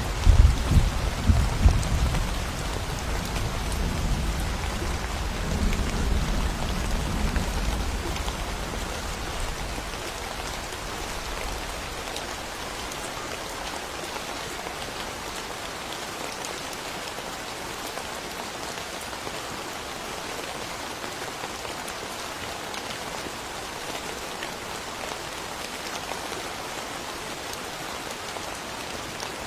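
Steady rain falling in a forest during a thunderstorm, with a low rumble of thunder over the first several seconds that dies away, leaving the even hiss of the rain.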